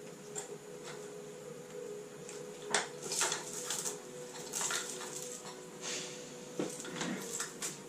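Workshop clatter: irregular metal clinks, knocks and short scrapes of tools and engine parts being handled, over a faint steady hum.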